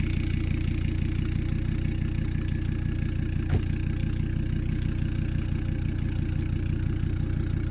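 Exhaust of a Volvo V70R's turbocharged five-cylinder engine idling steadily, run catless on an otherwise almost stock system. A single brief click about halfway through.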